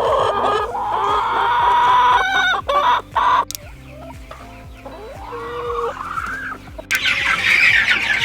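Young meat chickens peeping and clucking as a flock, with several longer rising calls.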